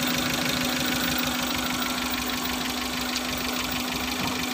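Fuel-injected Suzuki Futura engine idling roughly with an uneven low pulse. It is misfiring: the engine hunts and shakes, and unplugging injector no. 2 changes nothing, a sign that cylinder 2 is not firing.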